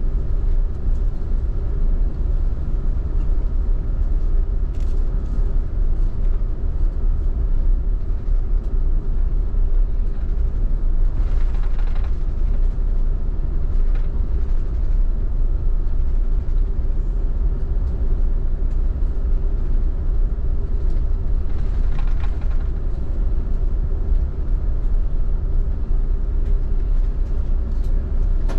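Steady low rumble of an Airbus A380 heard from inside the passenger cabin, its engines running at an even, unchanging level, with two brief rattles or bumps about 12 and 22 seconds in.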